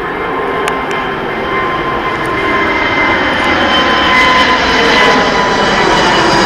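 Airbus A380's four turbofan engines at takeoff power, a jet roar with a steady whine over it, growing louder as the aircraft comes closer.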